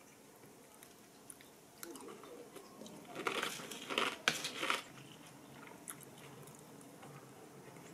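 Close-up chewing of a mouthful of yogurt with granola and nuts, crunching for about two seconds midway, with small mouth clicks before and after.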